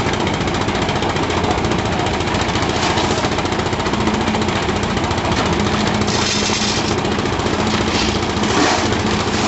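Construction machinery engines running steadily during a concrete pour, a dense mechanical din, with a faint hum coming in about four seconds in.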